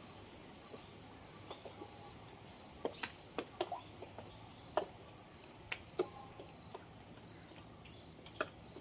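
Faint, scattered short chirps and clicks from birds, about a dozen spread unevenly over several seconds.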